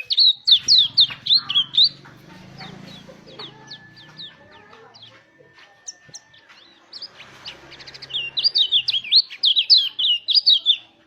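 White-eye (pleci) singing: fast runs of high, sharp chirps, densest over the first two seconds and again from about eight seconds on, with sparser notes between.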